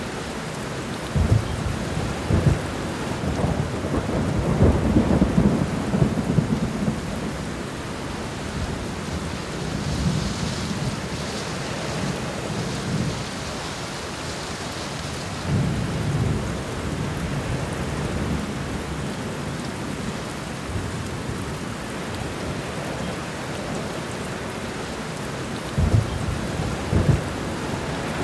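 Thunderstorm: steady heavy rain with thunder rolling in several low rumbles. Sharp cracks come just after the start and twice near the end.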